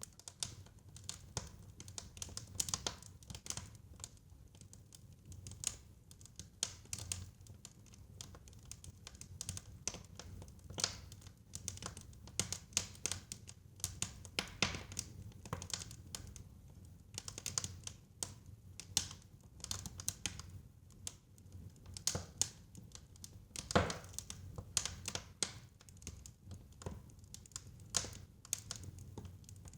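Fire crackling in a fireplace: irregular snaps and pops over a low, steady rumble of the flames, with one louder pop about two-thirds of the way through.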